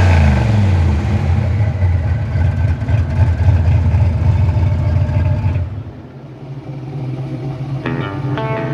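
Fox-body Ford Mustang engine running hard as the car accelerates past, loud and steady, then dropping away suddenly about five and a half seconds in. Guitar music starts near the end.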